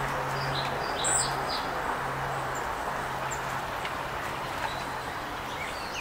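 Several short, high bird chirps in the first couple of seconds, over a steady low hum and outdoor background noise.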